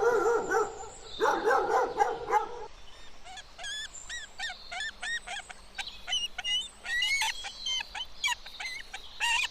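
Dog whining and howling in long wavering calls for the first two and a half seconds. Then a run of short, high, squeaky yips and whimpers, several a second.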